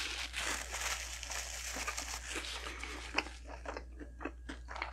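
Close-up chewing of a Big Mac with quarter pounder patties: dense crunching for the first few seconds, then separate sharp mouth clicks several times a second as the bite is chewed.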